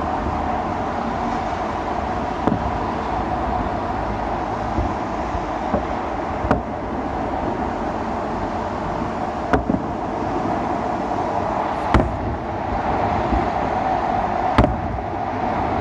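Festive salute fireworks bursting in sharp bangs every two to three seconds over steady background noise.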